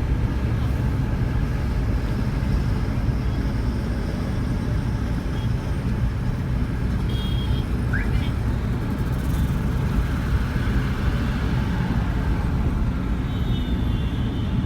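Steady low rumble of a vehicle driving along a highway: engine and road noise running evenly throughout.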